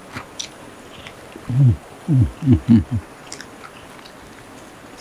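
Close-miked chewing and small mouth clicks of people eating rice and side dishes by hand. Roughly halfway through comes a quick run of about five short, low vocal sounds, each falling in pitch.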